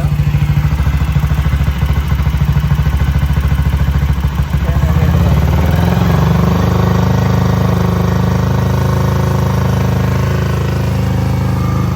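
1956 BSA Gold Star DB34's single-cylinder engine running, thumping over at idle, then picking up to a faster, steadier run about five seconds in.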